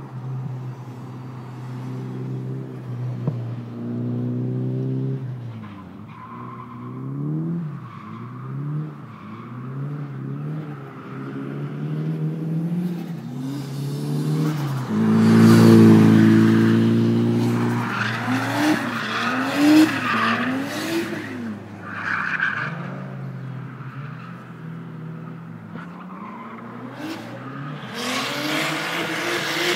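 Toyota Chaser JZX100 drift car's engine revving up and down repeatedly under throttle changes, with tyres skidding and squealing. The skid noise and the revs are loudest around the middle.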